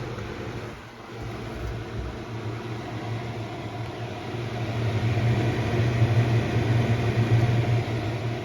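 Holmes HABF-110 10-inch box fan running, a steady motor hum under a broad rush of air noise, growing louder around the middle and easing near the end. It is a fan the owner calls loud and prone to vibrating while moving little air.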